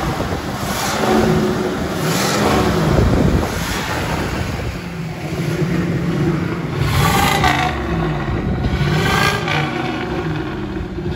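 Oldsmobile Toronado's V8 engine running and being revved, its pitch rising and falling again and again.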